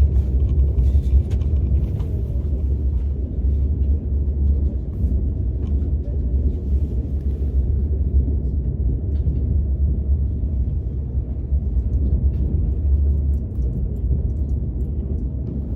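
Steady low rumble of a KTX high-speed train heard from inside its passenger cabin while it runs, with faint light clicks now and then.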